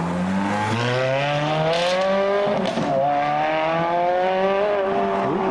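Ferrari F430's V8 accelerating hard, the revs rising through a gear, dropping at an upshift about two and a half seconds in, then rising again to another shift near the end.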